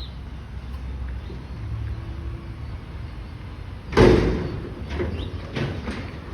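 Garbage truck engine running with a low rumble while it handles a dumpster; about four seconds in comes one loud metal bang, followed by a few smaller knocks.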